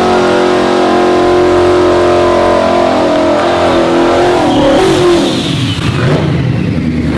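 High-performance street-race car engine at high revs. It holds a steady, strong note for about four seconds, sags slightly, and breaks up into a rougher sound after about five seconds.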